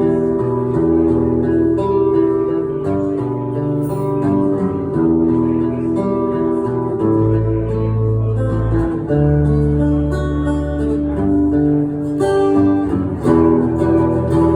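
Instrumental intro of a song, acoustic guitar strumming chords that change every second or two over sustained low bass notes.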